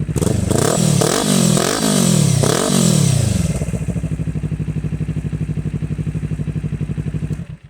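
Kawasaki Ninja 400 parallel-twin engine through an aftermarket slip-on exhaust with the baffle (dB killer) removed, idling and then blipped hard about four times in quick succession before settling back to a steady idle. The sound cuts off suddenly near the end.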